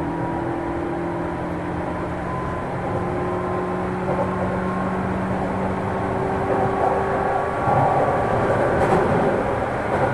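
Running sound inside a JR 205 series electric train's motor car: a steady hum and whine from its externally-fanned traction motors and gearing over wheel-on-rail rumble as it runs between stations, with a louder, rougher stretch of rail noise about eight seconds in.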